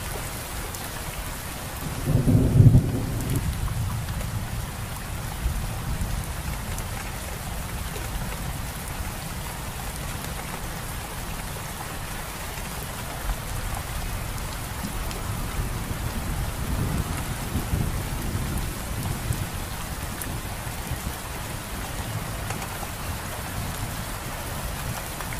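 Steady rain falling as an even hiss, with a low rumble of thunder about two seconds in, the loudest moment, and fainter low rumbles later.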